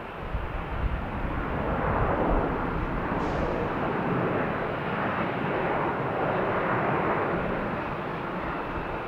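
Airplane engine noise as an aircraft passes: a steady rushing roar that swells over the first two seconds, holds, then eases slightly near the end.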